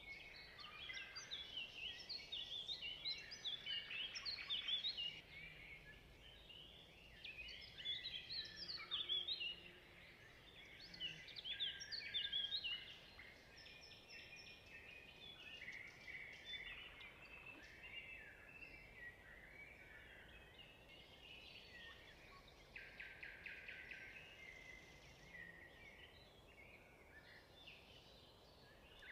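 Birds chirping and singing, many short, quick calls overlapping, loudest in the first half and thinning out later.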